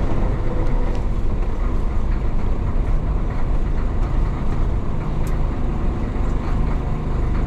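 1966 Isuzu BXD30 bonnet bus's DA640 diesel engine running under way, a steady low drone.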